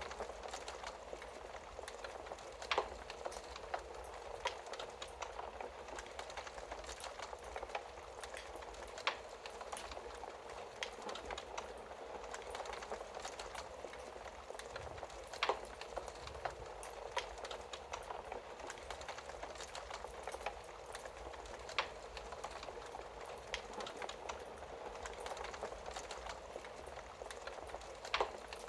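Wood fire crackling steadily in a fireplace, with a dense patter of small crackles and a sharper, louder pop about every six seconds.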